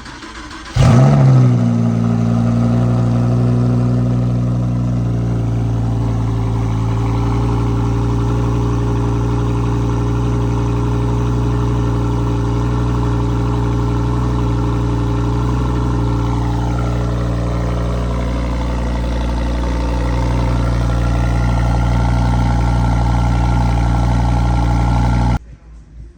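Lamborghini Huracan Evo Spyder's 5.2-litre V10 cold start: a short crank, then the engine catches with a loud flare and settles into a steady, high cold idle. The sound stops abruptly about a second before the end.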